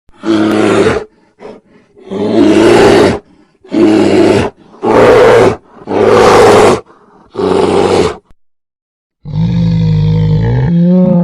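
A large animal calling loudly: six short, hoarse calls about a second each, one after another, then one longer, drawn-out call near the end that rises in pitch as it stops.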